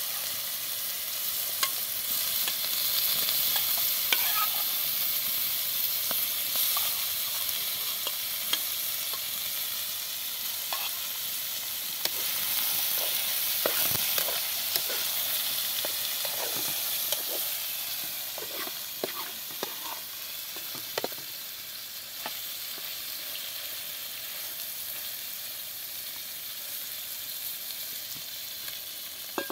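Meat and chopped onion frying in oil in a metal pan over a wood fire: a steady sizzle. Over the middle stretch come scattered clinks and knocks of a metal spoon against the pan and plate as more pieces are added.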